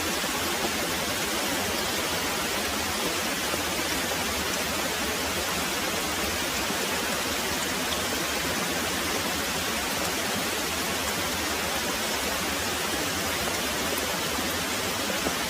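Very heavy rain pouring steadily, an even hiss with no breaks and no thunder in this stretch.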